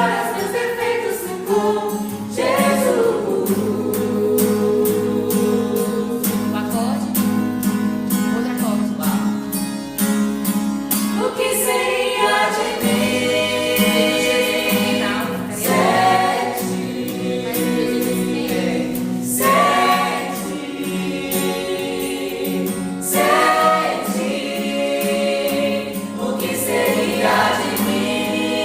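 Gospel choir singing a worship song in long held notes over steady instrumental backing with a regular beat.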